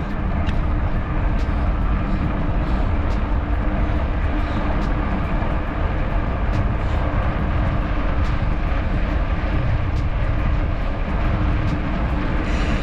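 Wind buffeting the microphone with road and traffic noise while riding a bicycle, a steady loud rush heaviest in the low end. Faint ticks come about twice a second throughout.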